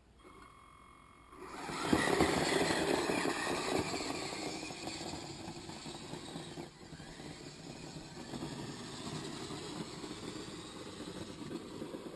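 Kyosho Blizzard RC tracked snow vehicle driving, its motor and tracks starting up about a second and a half in, then slowly fading.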